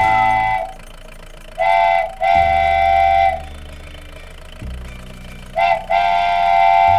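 A vehicle horn tooting in a short-then-long pattern, twice, with each long toot held for over a second, over a low rumble.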